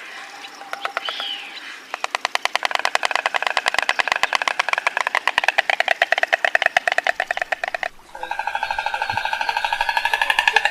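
Stork bill-clattering: a rapid, even run of clicks, about ten a second, starting about two seconds in. After a brief break near eight seconds, a second, faster bout follows.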